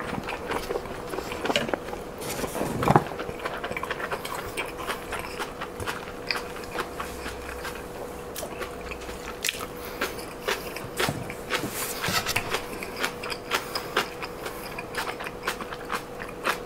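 Close-miked chewing of a mouthful of shrimp fried rice and stir-fried webfoot octopus, with many short wet clicks and smacks of the mouth. The loudest mouth sound comes about three seconds in. A faint steady hum runs underneath.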